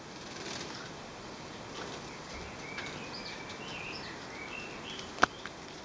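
Parakeets chirping in short, scattered high calls over a steady hiss, with one sharp click about five seconds in.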